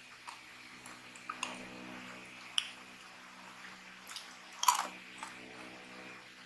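Crunchy mixed-nut snack (corn kernels, green peas, peanuts) being bitten and chewed: a handful of sharp, irregular crunches, the loudest a little under five seconds in, over a faint low hum.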